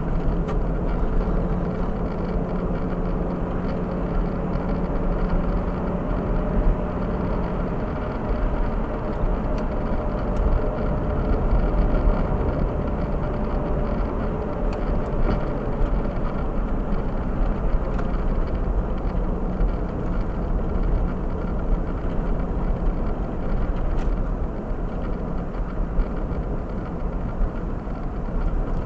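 A car running with a steady low rumble, with a faint hum under it for the first several seconds.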